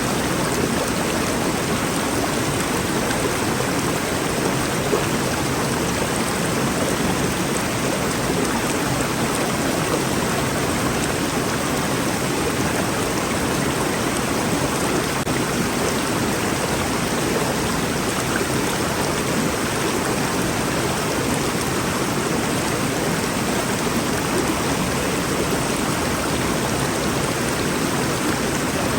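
Rainforest river flowing: a steady, even rush of water with no pauses.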